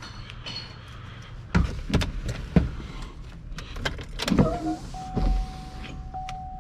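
A Chevrolet Camaro's electrics with the battery being connected: a few sharp clicks and knocks, then from about five seconds in a steady high-pitched tone. No engine sound.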